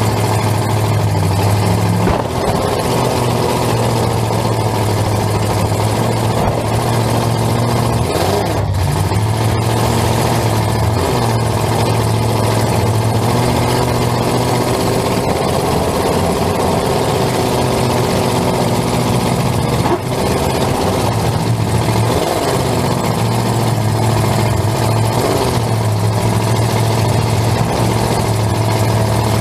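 Demolition derby car's engine heard from inside the cab, running loud and rising and falling in pitch as it is revved and let off, with a few sharp knocks along the way.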